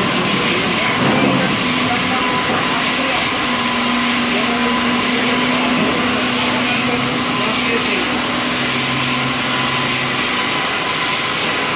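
Sawmill machinery running: an automatic log carriage and its saw give a loud, steady mechanical noise with a hissing top end and motor hums that change pitch a few times.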